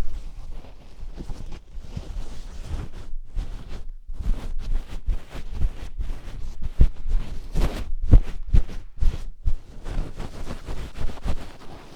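Oiled hands massaging and rubbing directly on the ears of a 3Dio binaural microphone: close, uneven rubbing and slick strokes with many soft bumps on the mic.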